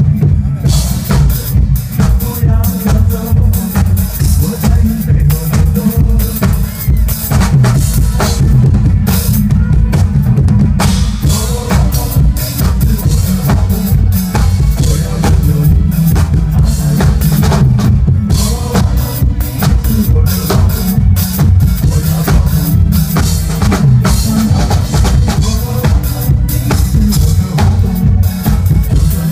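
A drum kit played live along to a pop song backing track: fast, steady bass drum and snare hits with cymbals over a heavy bass line.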